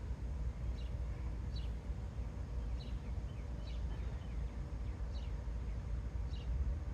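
A bird calling repeatedly outdoors, short high chirps that fall in pitch, about one a second, over a steady low rumble.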